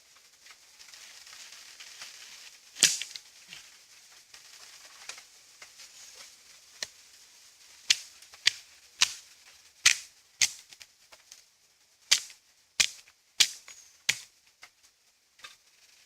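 Dry sticks and wood of a campfire snapping and cracking in sharp, irregular pops, about a dozen of them bunched toward the second half. A faint hiss runs through the first few seconds.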